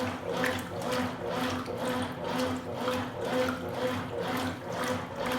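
Consul Supercargo 8 kg top-load washing machine agitating a load of towels in water, the motor hum and water slosh pulsing about twice a second as the agitator swings back and forth, turning the towels over in the tub.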